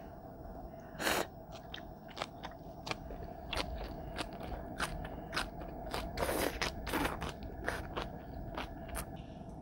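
Close-miked crunching and chewing of napa cabbage kimchi: a run of sharp crisp crunches, with a louder wet crunch about a second in and a cluster of longer crunches around six to seven seconds.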